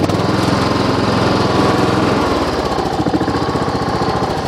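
Kohler Courage engine on a riding lawn tractor running steadily under throttle; its note shifts about two seconds in.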